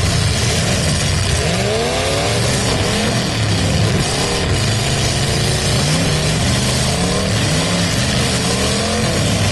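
Engines of several full-size demolition derby cars revving up and down over each other, their pitches rising and falling, over a steady din of engine and exhaust noise.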